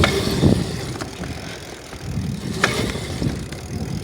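Bicycle ridden over rough ground: a steady rumble of rolling tyres with rattles, and a couple of sharp clicks.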